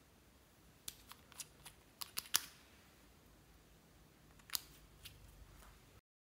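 A run of sharp small clicks and snaps: a quick cluster of about seven over a second and a half, then a few more spaced out, before the sound cuts out to silence.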